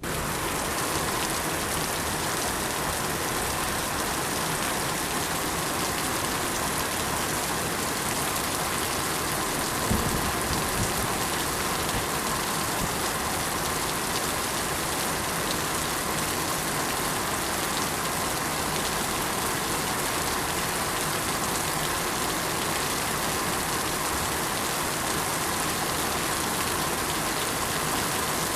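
Steady rain falling, an even hiss of drops on surfaces, with a brief low thump about a third of the way in.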